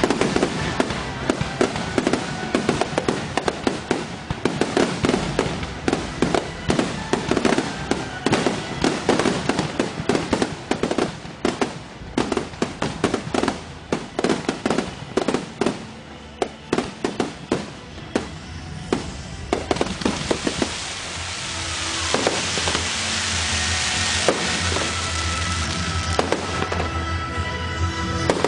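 Fireworks going off in a rapid barrage of bangs and crackles for about twenty seconds, thinning out and giving way to a steady rushing noise for the last several seconds.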